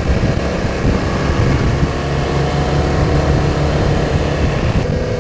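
BMW R1200 motorcycle's boxer-twin engine running under way, with wind rushing over the microphone.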